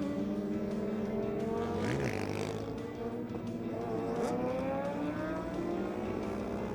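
Superbike engines running and revving. One rises and falls in pitch about two seconds in, and another climbs steadily in pitch over the last few seconds as it accelerates.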